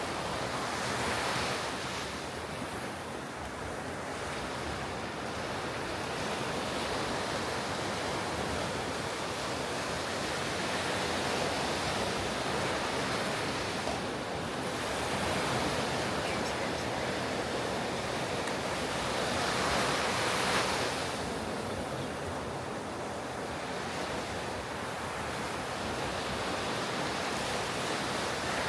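Ocean surf on a beach: a continuous wash of breaking waves that swells with each set, loudest about twenty seconds in, with some wind on the microphone.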